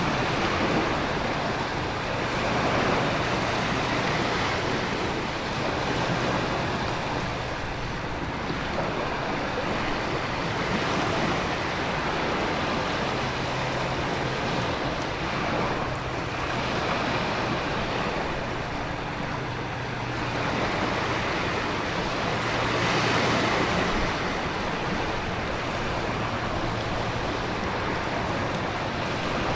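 Storm ambience of heavy rain and wind with ocean surf: a dense, steady hiss that swells every several seconds as waves break, over a faint low hum.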